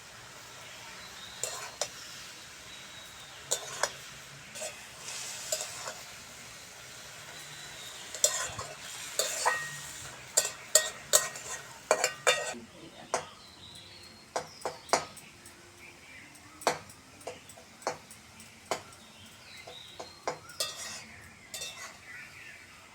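Vegetables frying in oil in a pan, stirred with a spatula that scrapes and knocks against the pan. The sizzle fades after the first few seconds, and the spatula strikes come thickest around the middle.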